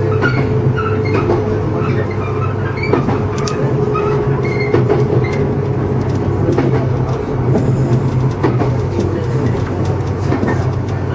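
JR East 115 series electric train running along the track, heard from inside the cab: a steady low hum and rumble with scattered clicks of the wheels on the rails. A thin whine sounds through the first half and fades out about halfway.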